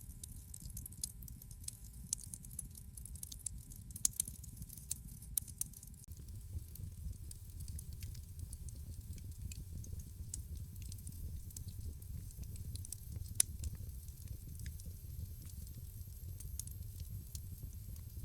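Wood fire crackling in a fireplace: irregular sharp pops and snaps over a steady low rumble of burning. The snaps come thickest about four to five seconds in, and one louder pop comes about two-thirds of the way through.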